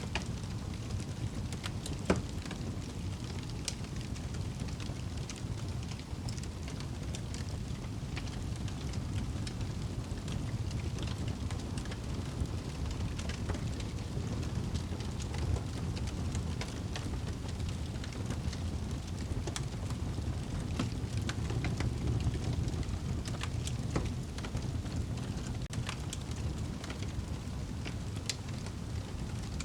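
Wood fire burning in a fireplace: a steady low rumble of flames with scattered sharp crackles and pops, a louder pop about two seconds in and another about halfway through.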